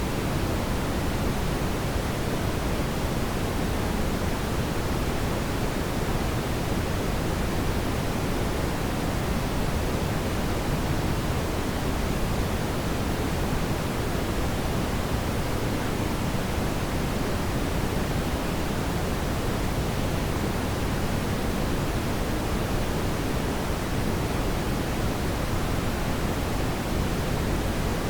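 Steady brown noise: an even, unchanging hiss-like rumble, strongest in the low end.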